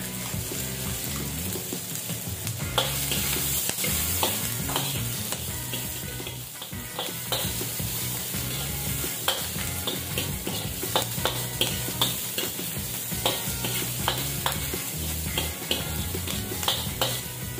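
Ginger, onion and garlic sizzling in hot oil in a metal wok, with a spatula scraping and tapping the pan again and again as they are stirred.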